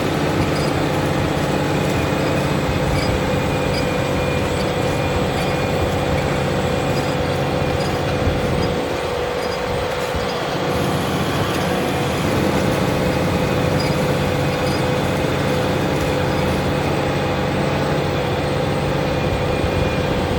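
A Fendt tractor's engine running steadily under load while ploughing, with a steady whine held over the engine note.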